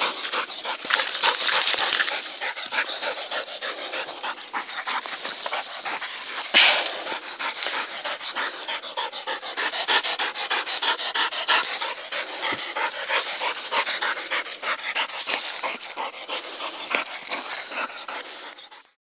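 A shepherd dog panting in quick, rasping breaths that cut off suddenly near the end.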